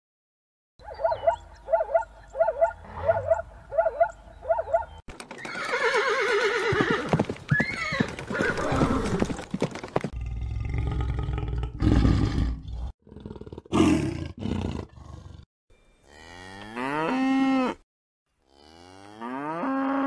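A string of different animal calls one after another: a run of short repeated calls, a busy noisy stretch, a low roar, and near the end two long moos from cattle, each rising in pitch and then holding.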